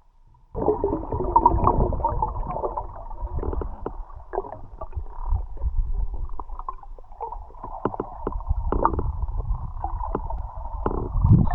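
Muffled gurgling and rumbling of water with irregular knocks, starting about half a second in.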